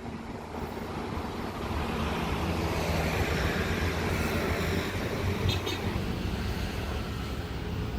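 A train going by: a steady engine drone with broad running noise, swelling over the first few seconds and then staying loud, with a brief rattle of clicks about five and a half seconds in.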